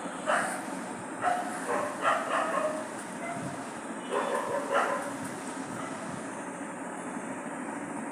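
A pet bird making a string of short, odd calls, about seven in the first five seconds, then falling quiet over a steady background hiss.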